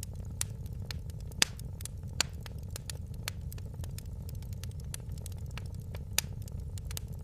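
Wood fire crackling: irregular sharp pops and snaps, a few louder ones about a second and a half in, a couple of seconds in and near the end, over a steady low rumble of the flames.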